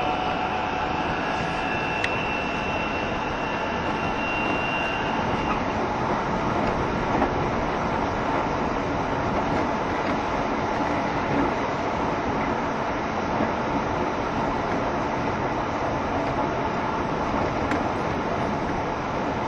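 JR Shikoku 7200 series electric multiple unit running at speed between stations, heard from on board: a steady rolling and running noise from wheels on rails. Faint steady tones fade out within the first few seconds.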